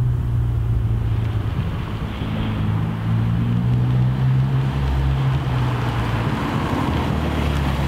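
A Ford Focus hatchback's engine running steadily as the car drives up the street toward the microphone, a low hum with a noisy haze over it.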